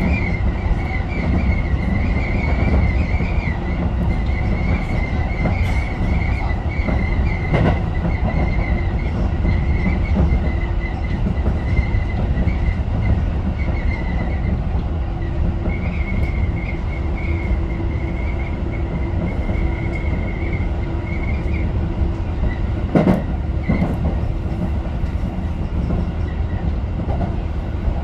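Tobu 10030-series electric train running at speed, heard from the front of the train: a steady rumble with a wavering high wheel squeal that fades out near the end. A sharp knock comes about 8 seconds in and a louder one at about 23 seconds, typical of wheels passing over rail joints or points.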